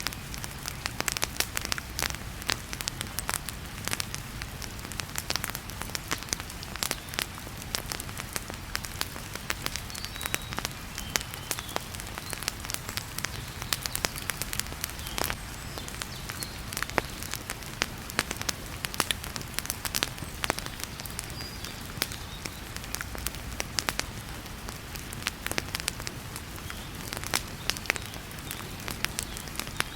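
Wood fire crackling and popping in a fireplace, with frequent sharp snaps over a steady hiss of heavy rain and a low rumble.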